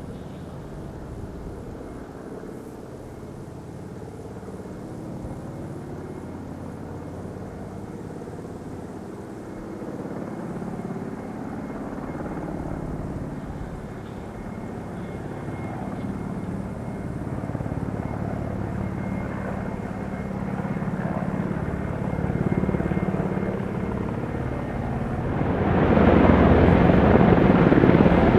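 Helicopter in flight with a steady rotor and engine sound that builds gradually as it approaches. It becomes much louder and fuller about 26 seconds in as it passes close.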